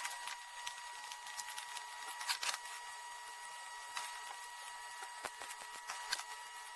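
Electric arc welding inside a steel gas cylinder: an irregular crackle and sputter over a steady high-pitched whine.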